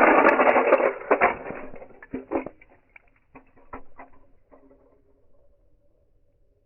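1/64 scale diecast toy cars crashing: a loud, dense clatter of small metal and plastic impacts at the start, then a scatter of separate knocks and clicks that thin out and fade over the next few seconds as the pieces come to rest.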